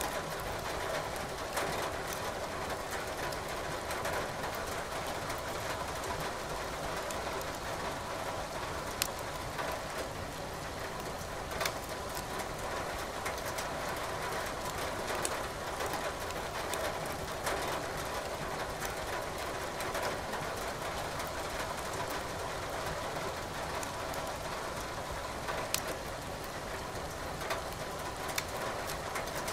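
Steady rain hiss with firewood crackling in a fireplace, now and then a sharp pop standing out from the run of small crackles.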